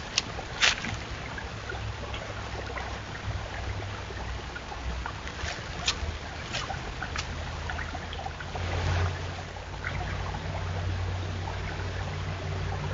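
White-tailed deer chewing apples: a few sharp, scattered crunches over a steady low rumble, with a short rush of noise about nine seconds in.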